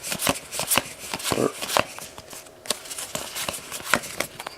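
Trading cards being handled and flipped through by hand: a run of crisp, irregular card snaps and clicks over a light rustle.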